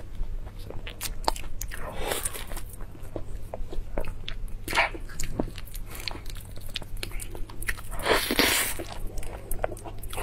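Close-up eating of soft durian flesh: wet chewing with many small lip smacks and mouth clicks, plus a few longer squishy smears near 2 s, 5 s and 8 s in as the fruit is pulled apart and bitten.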